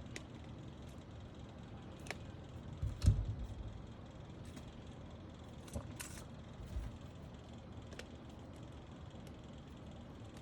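Pliers and metal keyboard-case parts being handled while a plate-mounting tab is twisted: scattered light clicks and knocks, with a louder dull thump about three seconds in.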